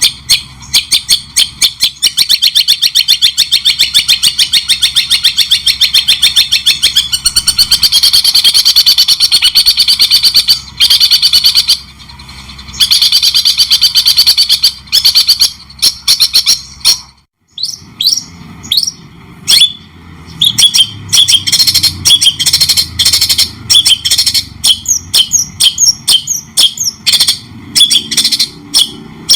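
Songbird singing a fast, unbroken string of high chirping notes, several a second. It breaks off briefly about 17 seconds in and resumes with more spaced notes that slide downward.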